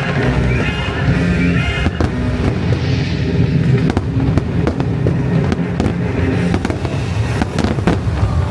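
Fireworks going off in many sharp cracks and bangs, starting about two seconds in, over loud show soundtrack music.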